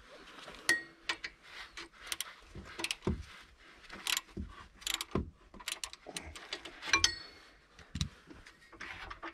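Metal wrench and tools clinking and scraping against nuts and engine parts while a nut is worked loose. The sounds come as irregular clicks, with two sharp ringing clinks: one near the start, one about two-thirds of the way through.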